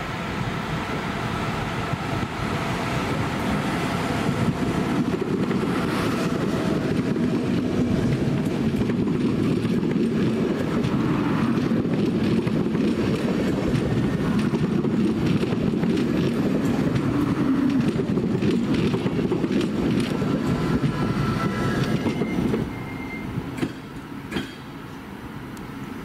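A passenger train hauled by a Siemens Vectron electric locomotive rolls slowly into a station past the listener. The wheels rumble and clatter over the rails, growing louder over the first few seconds and holding steady. Near the end the noise drops off sharply as the train comes to a stand, with a brief thin squeal and two knocks.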